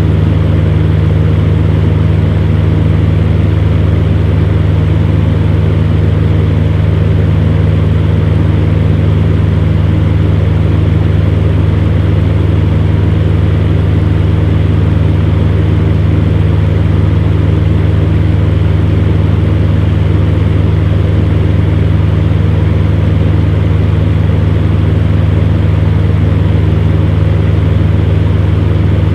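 Electric fan heater running steadily: a constant low hum from the motor under an even rush of blown air.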